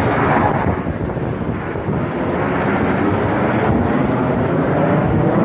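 Airplane flying over, a steady loud rushing engine noise, mostly low in pitch, growing a little louder near the end.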